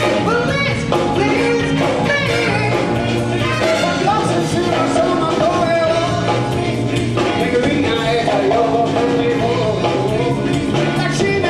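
Live band music with a singer, playing steadily and densely throughout.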